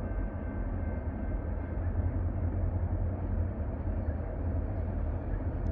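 Steady low rumble of DeQueen Eastern's diesel locomotives working in the distance as the train approaches.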